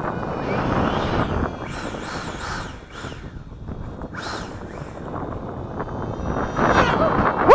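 A small RC electric ducted-fan jet whining as it passes several times, its pitch rising and falling with each pass, over steady wind noise on the microphone; near the end a louder pass drops in pitch.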